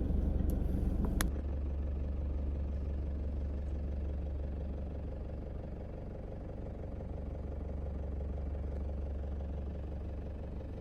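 Steady low rumble of a car, heard from inside, with two faint clicks in the first second and a half.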